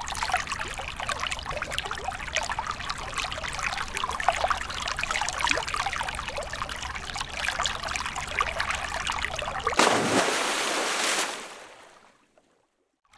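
A thin stream of water pouring into a small popsicle-stick model well that already holds water, splashing and trickling with a crackle of drops. About ten seconds in it turns to a smoother, steadier hiss, then fades away over a second or so.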